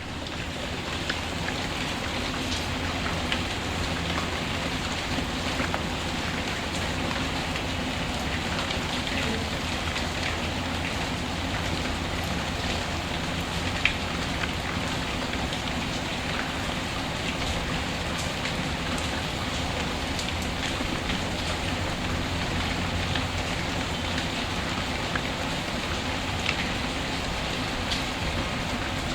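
Steady rain mixed with the crackle of a wood fire: scattered sharp pops over the rain's even hiss, one louder pop about fourteen seconds in.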